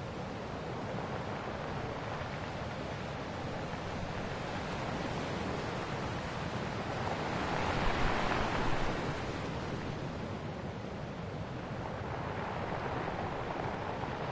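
Ocean waves washing on a shore: a steady rushing surf, with one wave breaking louder about eight seconds in and a gentler swell near the end.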